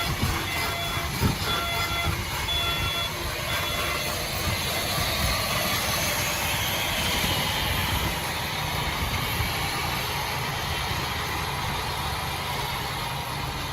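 Heavy earthmoving machine working with steady engine and track noise and some clanking. Its reversing alarm beeps repeatedly for the first few seconds, then stops.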